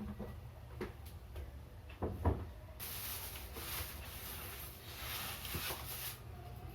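Two low knocks, then about three seconds of scratchy, hissing handling noise that stops abruptly.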